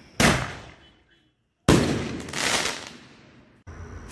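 Two loud bangs of 5-inch canister firework shells bursting, the first about a fifth of a second in and dying away within a second, the second about a second and a half later, swelling again before it fades. Near the end, a steady hiss as a shell's fuse is lit.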